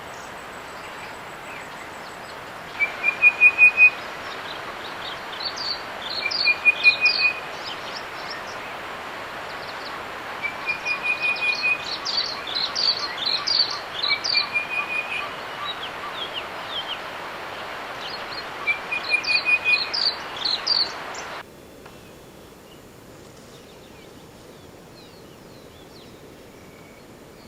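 A bird singing a loud, rapid, repeated phrase about five times, each opening with a short steady trill and running into a quick burst of high notes, over a steady outdoor hiss. The song and hiss stop abruptly about 21 seconds in, leaving a quieter background hiss.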